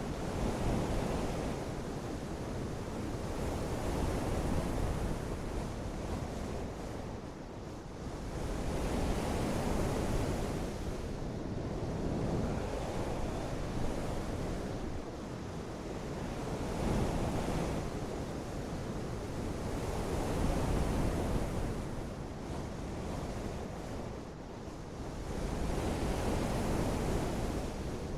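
Dense, deep rushing noise of water and wind, swelling and easing in slow surges every three to five seconds.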